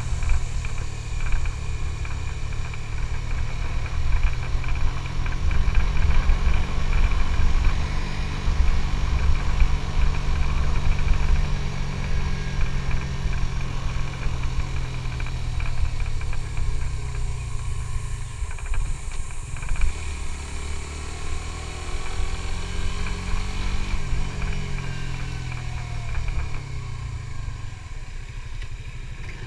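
Suzuki GSX-S150's single-cylinder four-stroke engine running under way, its pitch rising and falling with the throttle. It drops away briefly a little past halfway, then builds again and eases off near the end.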